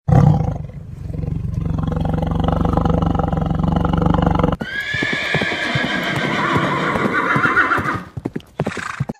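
A cheetah's low, continuous purr for the first half. It cuts off abruptly and a horse neighs in a long, wavering whinny, followed by a quick run of hoofbeats near the end.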